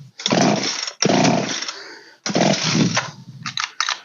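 Old Poulan 3616 two-stroke chainsaw being pull-started: three pulls in quick succession, each a short burst of cranking noise that fades within about a second. The engine will not keep running, which is taken as a sign that the carburetor needs adjusting.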